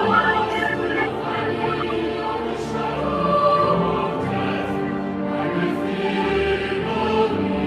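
Choral music: a choir singing slow, sustained lines.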